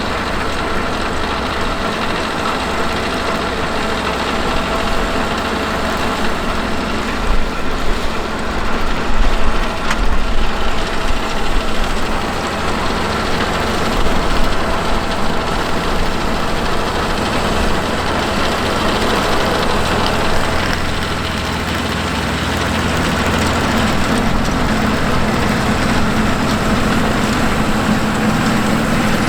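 Fendt 939 Vario tractor's diesel engine running steadily under load while pulling a seven-furrow plough and front power harrow, with a few louder swells partway through and the engine note growing stronger in the last several seconds.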